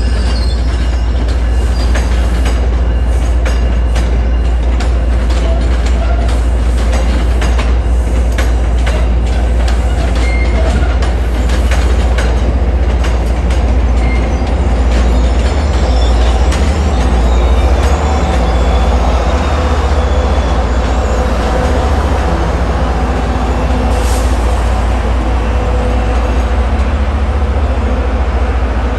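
MBTA commuter rail passenger coaches rolling past at low speed, their wheels clicking over rail joints and switchwork, over a steady low rumble. The clicks are densest in the first half and thin out toward the end.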